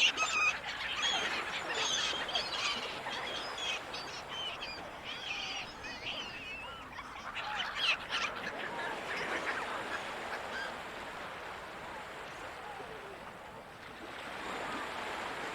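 A flock of gulls calling: many overlapping cries, loudest at the very start and dense for the first half, then thinning to fainter, scattered calls.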